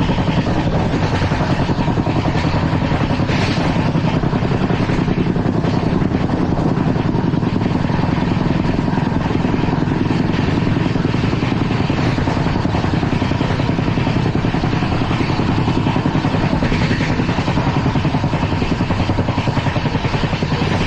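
LHB passenger coach running at speed on the track: a loud, steady rumble with a fast, continuous rattle of wheels on rail.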